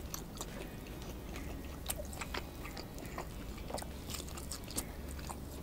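A person biting and chewing grilled wagyu picanha steak close to the microphone: soft, irregular wet smacks and clicks.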